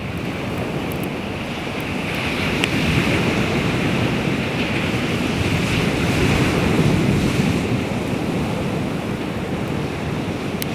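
Baltic Sea waves washing ashore, swelling and easing over several seconds, with wind buffeting the microphone and a couple of faint clicks.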